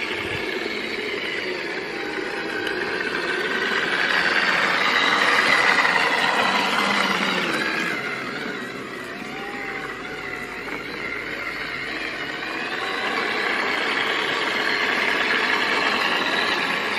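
Brushed electric motor salvaged from a pressure washer running on 24 V DC and driving a mini electric tricycle, its whine and drivetrain noise getting louder over the first few seconds, dropping off about halfway, then building again.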